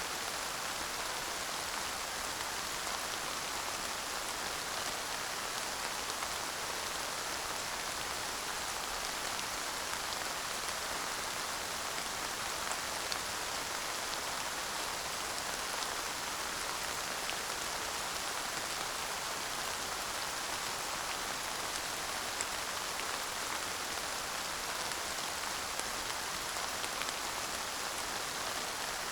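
Steady light rain falling, an even hiss of drops with the odd faint patter, no thunder.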